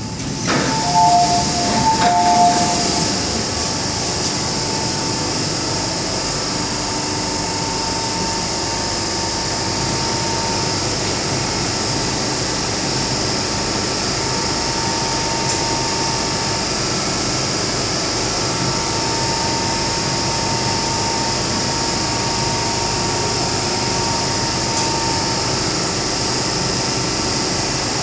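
MTR M-Train standing at the platform with its doors open: a knock at the start, then a repeating two-tone chime for about two seconds. After that comes a steady hum and hiss from the train's ventilation and air conditioning.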